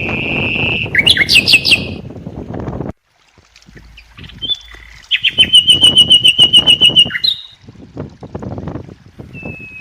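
A songbird singing loudly and close by: clear high whistled notes broken by fast trills of rapidly repeated notes. A steady rushing noise underneath stops abruptly about three seconds in.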